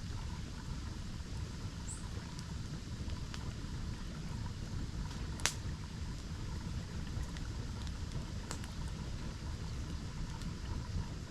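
Campfire crackling with a few sharp pops, the loudest about five seconds in, over the steady low rumble of a nearby waterfall.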